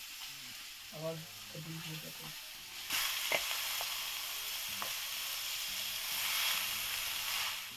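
Momo filling (masala) sizzling in hot oil in a pan, with a few faint clicks. The sizzle gets louder about three seconds in.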